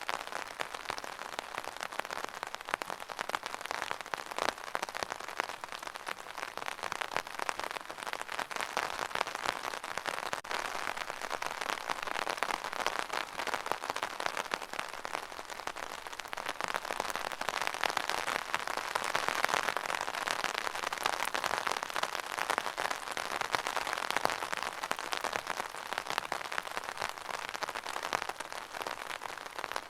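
Steady rain falling, many small drops ticking on a surface in a dense, even hiss, a little heavier for a few seconds past the middle.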